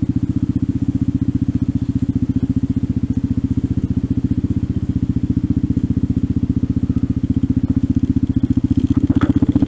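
Trail motorcycle engine running at a steady speed, its exhaust pulses coming fast and even. A few light clicks come near the end.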